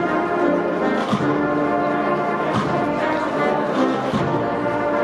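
Brass band playing a slow Holy Week processional march, long held brass notes with a drum stroke about every second and a half.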